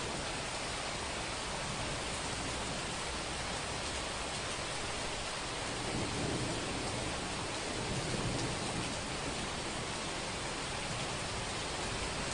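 Steady rain hiss, with a low rumble of thunder swelling about halfway through and again a couple of seconds later.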